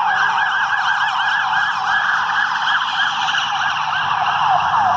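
Electronic emergency-vehicle siren in yelp mode: a fast, even up-and-down wail, about five or six sweeps a second, that goes on without a break.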